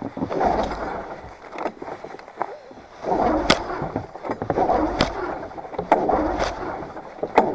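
Recoil starter rope of a cold Polaris 550 two-stroke snowmobile engine being pulled hard, again and again, the engine turning over noisily without catching. Sharp clicks come from the starter mechanism.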